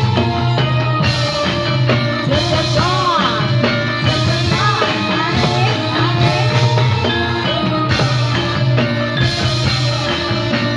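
Music for a Topeng Ireng dance: a loud ensemble with steady rhythmic drumming under a gliding sung or played melody.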